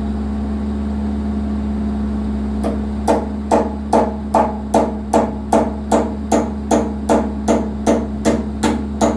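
An engine runs steadily, most likely the John Deere 120 excavator's diesel. About three seconds in, a hammer starts striking in a fast, even rhythm, a little under three blows a second, and keeps going.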